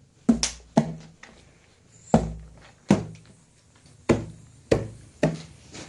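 A series of about seven sharp knocks or thuds, irregularly spaced, each dying away quickly with a low ringing tail.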